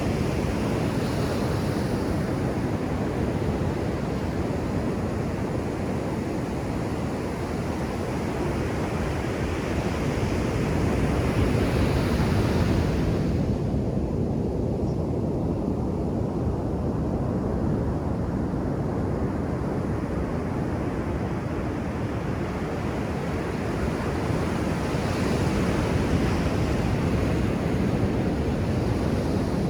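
Ocean surf washing onto a beach: a continuous rush of breaking waves, swelling a little louder about twelve seconds in and again near the end.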